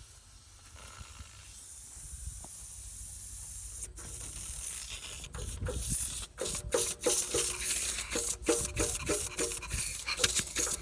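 Residual propane hissing out of a fill-hose coupling as it is unscrewed from a tractor's propane tank inlet, bleeding off the pressure trapped in the hose. The hiss grows louder over the first few seconds, and from about four seconds in it comes in quick spurts with short breaks.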